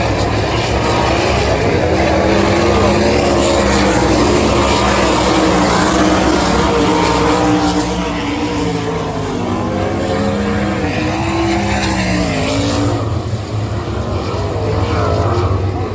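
Sprint car engines at full racing speed on the dirt oval, their pitch rising and falling as the cars pass and run through the turns.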